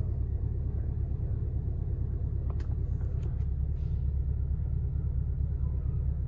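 Camaro SS 6.2-litre V8 idling, a steady low rumble heard inside the cabin, with a few light clicks about halfway through.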